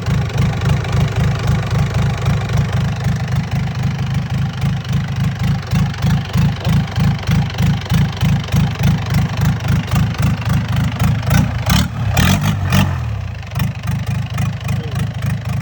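An engine idling with a steady, rhythmic low throb of about three pulses a second. A few sharp clicks about twelve seconds in.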